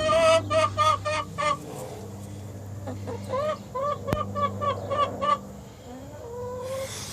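Broody hen on her eggs clucking angrily in two quick runs of short, evenly repeated notes, about five a second. This is the protest of a broody hen being disturbed on her nest. A single sharp click comes about four seconds in.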